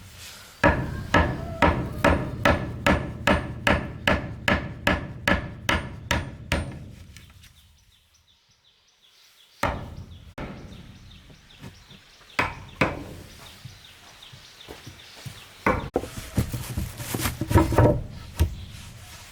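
A hammer striking wood in a steady run of quick blows, about three a second for some six seconds. After a short pause come a few single blows, then a quick flurry near the end.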